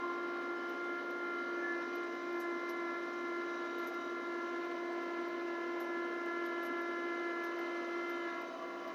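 Kubota LX2610 compact tractor running under load with its front-mounted LX2963 snowblower engaged, a steady drone with a held whine, heard from inside the tractor's cab.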